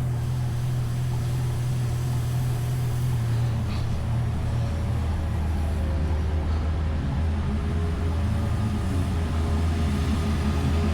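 Steady low hum of a motor vehicle's engine running, growing slightly louder near the end.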